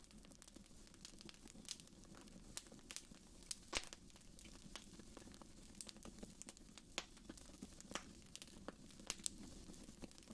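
Wood fire in a fireplace crackling, with irregular sharp pops and snaps over a faint steady low hiss; the loudest pop comes a little under four seconds in.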